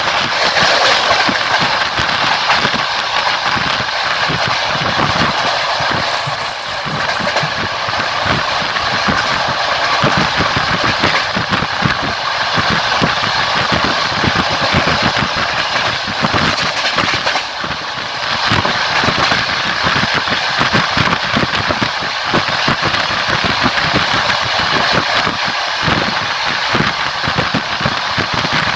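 Passenger train running at speed. Its wheels rumble and clatter on the rails, heard from the carriage window as a loud, steady noise with rushing air.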